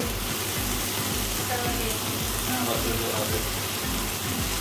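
Onions and tomatoes frying in a pot on a gas stove, a steady sizzle, with faint voices in the background.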